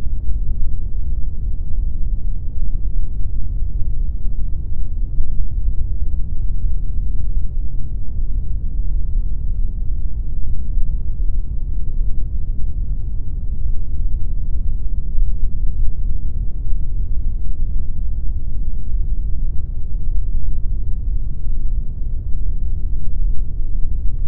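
Steady synthetic pink noise: a deep, even rush that is heavy in the bass with little hiss on top, unchanging throughout.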